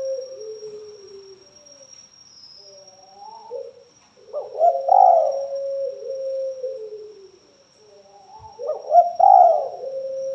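Spotted dove (tekukur) cooing: low, repeated coo phrases, the two loudest starting about four and a half and nine seconds in. A faint steady high whine runs underneath.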